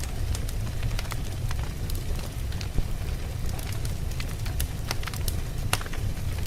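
Campfire of burning wood with a steady low rumble and frequent sharp crackles and pops, one louder pop about three seconds in.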